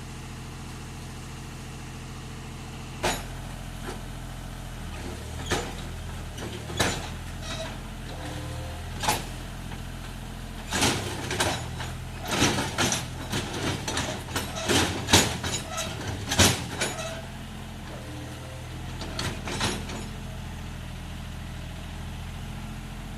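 John Deere tractor's diesel engine idling steadily, with a scattered run of sharp knocks and clanks, most of them packed together in the middle.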